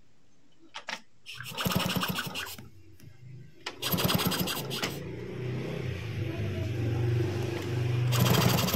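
Yamaha Chappy being kick-started with its spark plug out of the engine, turning the engine over to test for spark from a newly wired RS100 CDI. There are two short bursts of rapid clatter, then a longer, steadier run that rises near the end.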